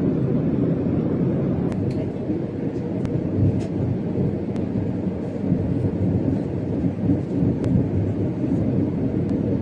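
Steady low rumble of aircraft and boarding-area machinery noise, with a few faint clicks.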